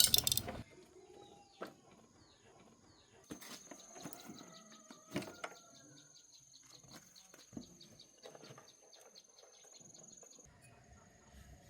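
Outdoor background of birds chirping and an insect trilling steadily, with a brief loud noise at the very start and a few light knocks scattered through.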